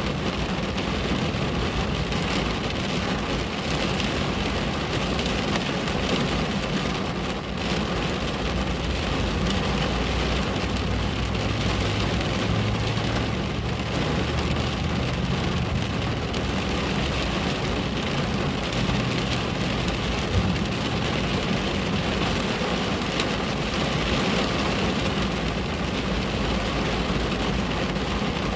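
Steady rain pattering on a window, a dense, even hiss of drops with a low rumble underneath.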